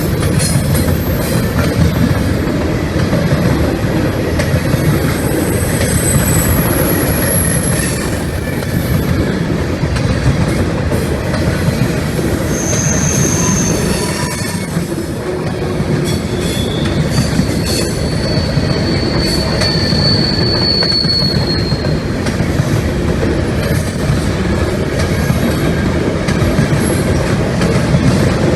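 Freight train cars rolling steadily past, with a continuous loud rumble and clatter of wheels on rail, and a few brief high-pitched wheel squeals along the way.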